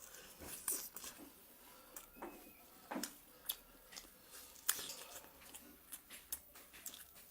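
Close-up chewing and biting into freshly fried chicken strips, with irregular crisp crackles.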